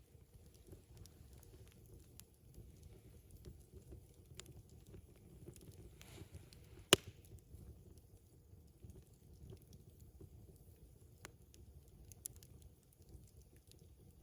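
Wood campfire crackling faintly with scattered small pops, and one sharp loud pop about seven seconds in.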